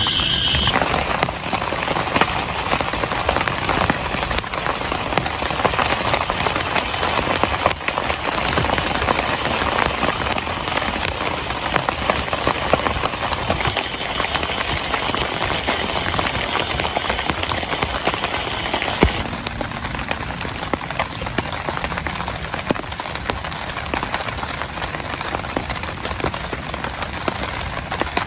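Heavy rain falling steadily, with many separate drops striking a surface close by. The hiss softens a little about two-thirds of the way through.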